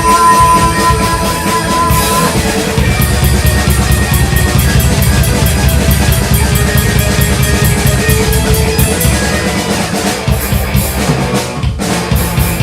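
Live rock band playing an instrumental passage: electric guitar with a held note near the start, drum kit with steady cymbal strokes, and bass.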